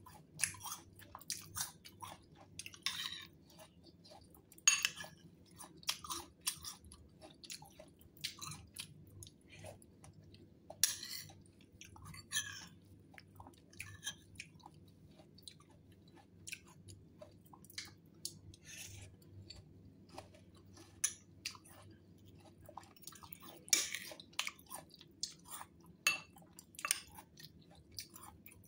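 Close-up chewing of fruit salad: irregular moist crunches and clicks as pieces of fruit are bitten and chewed, over a faint steady low hum.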